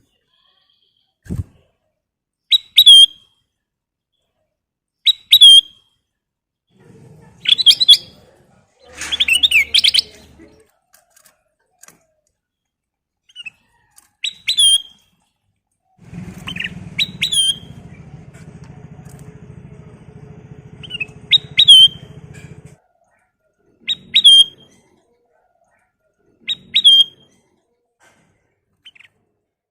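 Kutilang emas bulbul calling in short, loud, whistled phrases of sweeping notes, repeated every one to three seconds. A low steady hum runs underneath for several seconds midway.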